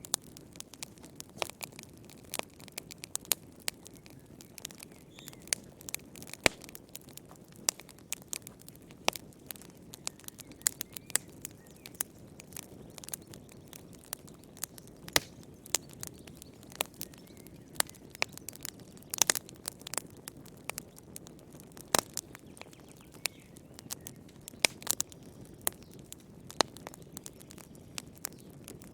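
Fire crackling in a fireplace: irregular sharp pops and snaps, several a second at times, over a soft low hiss.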